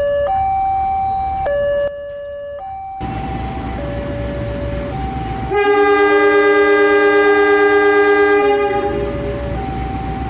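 Two-tone hi-lo siren alternating steadily, joined about five and a half seconds in by a loud multi-note train horn held for about three seconds.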